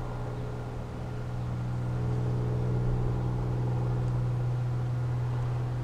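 A steady low hum over a faint hiss, growing a little louder about a second or two in.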